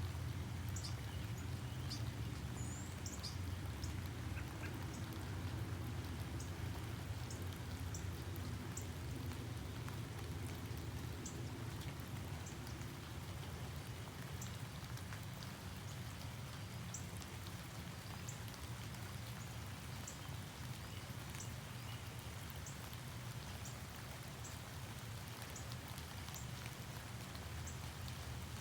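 Outdoor morning ambience: a steady low rumble and faint hiss, with short, high chirps repeating irregularly every second or two and one brief warbling call near the start.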